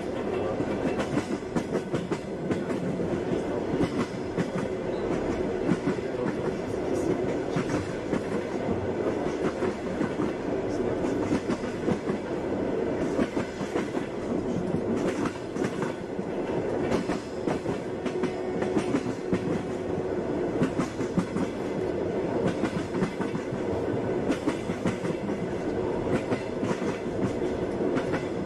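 Passenger train running steadily, heard from inside a carriage: a continuous rumble of the wheels on the rails with frequent clacks at the rail joints.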